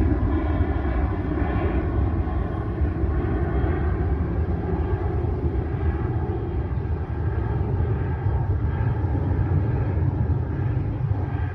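Jet airliner climbing out after takeoff: a steady engine rumble with a faint whine, easing slightly toward the end.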